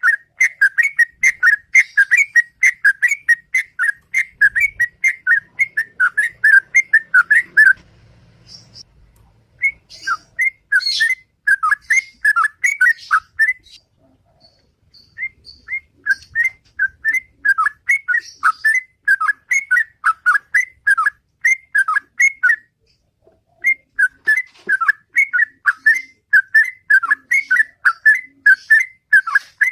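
Yellow-vented bulbul (trucukan) singing its fast, continuous 'ropel' song: long runs of bubbly whistled notes, about three to four a second, breaking off briefly about 8 seconds in and again about 14 seconds in.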